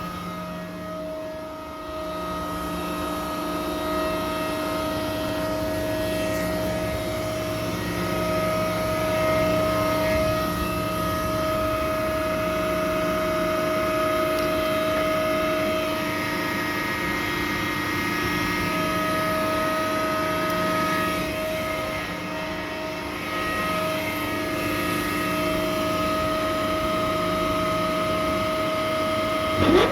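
Carrier chiller machinery running steadily: a constant drone carrying a few steady whining tones that drop out and return now and then.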